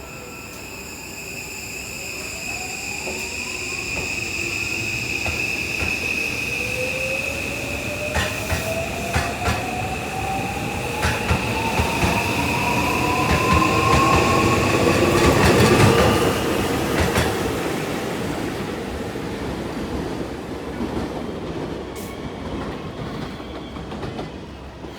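Seibu 001 series train accelerating away, its Mitsubishi SiC-VVVF inverter and traction motors whining in a tone that rises steadily in pitch, over a steady high whistle. Wheels click over rail joints as it builds speed, and the sound peaks and then fades as the train passes and draws away.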